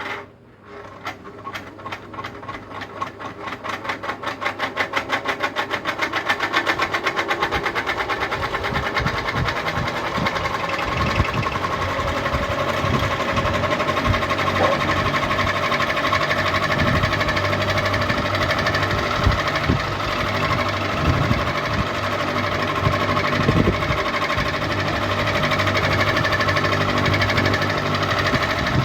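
Ceiling fan starting up: a rhythmic pulsing that quickens and grows louder over the first several seconds as the blades come up to speed, then a steady mechanical hum with a few held tones.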